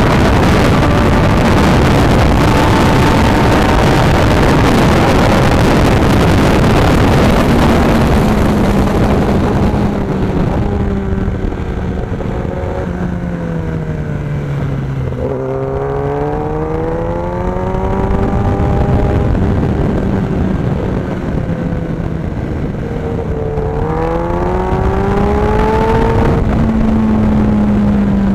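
Kawasaki ZX-10R's inline-four engine at speed, heard from onboard. For about the first ten seconds it runs at high speed under a loud rush of wind noise. Then the wind eases and the revs fall into a corner, lowest about fifteen seconds in, and climb again as the bike drives out, with another brief dip and rise near the end.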